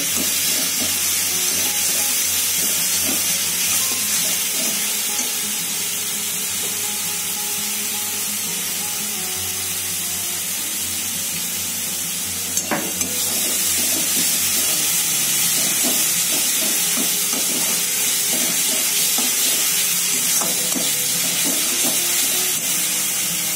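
Onion-tomato spice paste sizzling steadily in mustard oil in a metal wok (kadai), being stirred and scraped with a flat metal spatula, with one sharp click of the spatula against the pan about halfway through. The masala is frying down until the oil separates from it.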